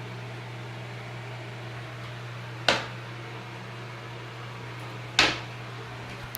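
Two sharp knocks about two and a half seconds apart, over a steady low hum.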